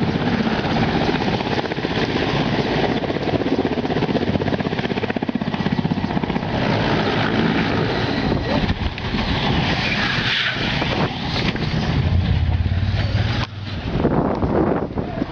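Helicopter rotor and engine noise, loud and steady with a fast fluttering chop that buffets the microphone. It cuts off abruptly at the very end.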